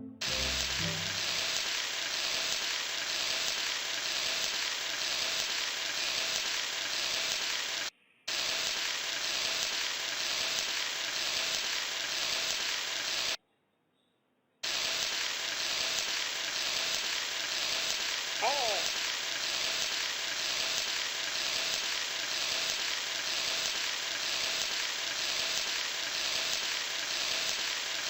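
Steady hissing noise, even and unbroken, that cuts out to silence twice: briefly about eight seconds in, and for about a second around fourteen seconds in. A short chirp comes near the middle.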